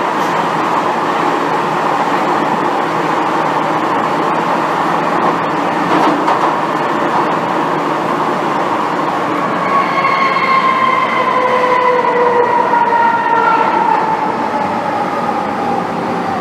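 Cabin noise of an MTR Tsuen Wan Line M-Train running underground. About two-thirds of the way in, a howl of several tones starts and slowly falls in pitch as the train slows. This is the strong 'ghost-howl' brake sound these trains are known for.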